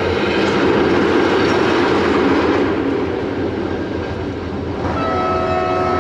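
Sleeper train running: a steady rumble and rattle. About five seconds in, a steady whine of several tones sets in and holds.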